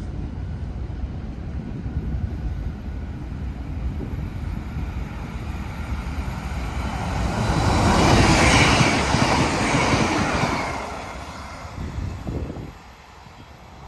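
Train passing close by. The rumble builds to its loudest about eight to ten seconds in, then fades near the end.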